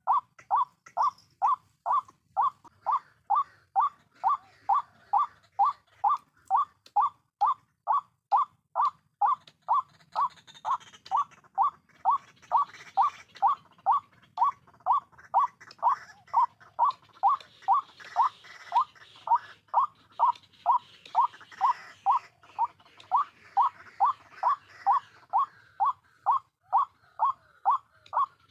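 White-breasted waterhen's call: one short note repeated very evenly, about two and a half times a second, without a break.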